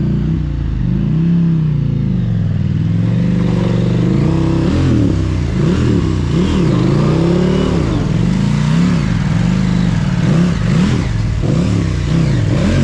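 Big adventure motorcycle's parallel-twin engine repeatedly revving up and dropping back as the throttle is worked on and off, the way a rider blips the throttle to climb over rocks at low speed.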